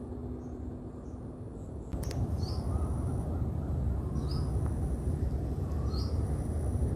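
A bird calling repeatedly: a short, falling call about every second and a half to two seconds, over a steady low rumble. A click about two seconds in is followed by the rumble growing louder.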